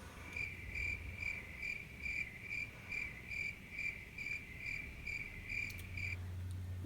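Cricket chirping: a steady train of short, high chirps, about two or three a second, that stops about six seconds in.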